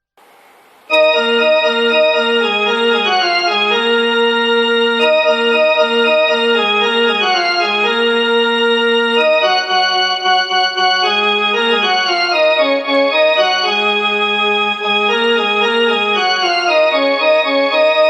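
Keyboard music in an organ-like voice: held chords with a moving melody line, starting abruptly about a second in.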